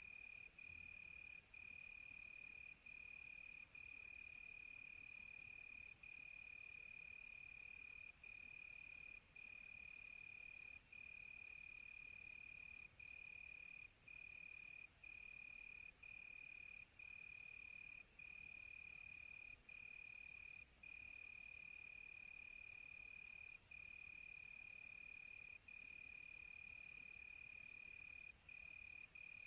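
Crickets chirping in one continuous high trill, broken by brief gaps every second or two, over a faint high hiss.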